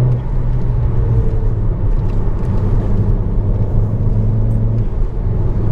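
Alfa Romeo Giulietta 1.4 170 hp turbo four-cylinder running steadily through a Paris Garage aftermarket rear silencer, with the original centre silencer kept. It makes a low, even exhaust note that eases slightly in pitch near the end.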